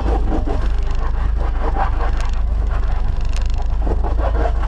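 Off-road Jeep running with a loud, steady low rumble, with two short sharp knocks about two and three seconds in.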